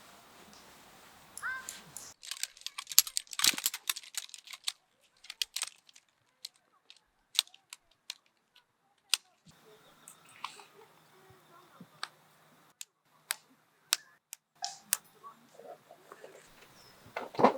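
Irregular sharp clicks and light knocks, a dense run of them in the first few seconds, then single clicks spaced a second or so apart, with a short chirp near the start.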